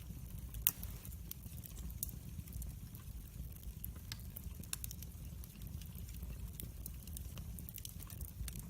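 Wood fire burning in a fireplace, crackling with irregular sharp pops over a steady low rumble of the flames; one pop near the start stands out loudest.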